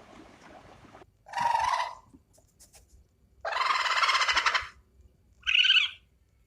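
Turkey gobbling: three calls, the middle one longest and rattling, the last one short and higher-pitched.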